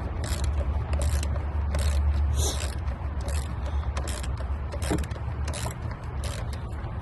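Ratchet wrench clicking in repeated strokes, about one every 0.7 seconds, as it turns a throttle body mounting bolt. The ratchet is working the bolt loose when it should be tightening it.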